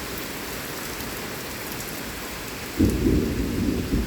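Heavy rain falling steadily in a severe thunderstorm. Almost three seconds in, loud thunder breaks in suddenly and rumbles on in surges.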